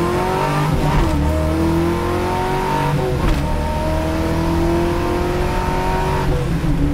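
Car engine accelerating hard through the gears. The pitch climbs steadily, drops briefly at an upshift about three seconds in and again near the end, then climbs again.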